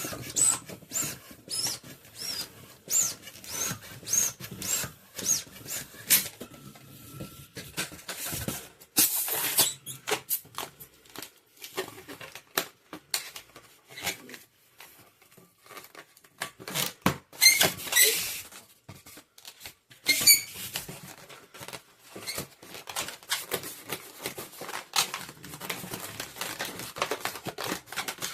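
Latex twisting balloons being rubbed and twisted, squeaking in short high chirps amid many small clicks and handling noises. A few louder sharp snaps come past the middle.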